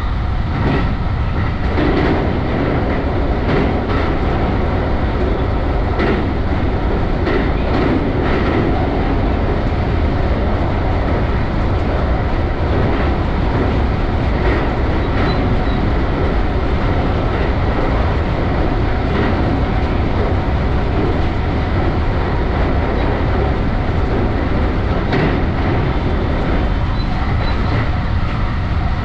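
JR West Special Rapid Service electric train running at speed, heard from the front cab: a steady rumble of wheels on rail, broken by irregular clicks over rail joints. The clicks come thickest in the first third, while the train crosses a steel truss bridge.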